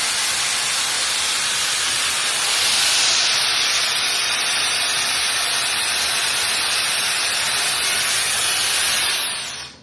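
Shark air styler with its curling barrel attachment blowing air: a steady rushing hiss that gets a little louder about three seconds in and fades out near the end.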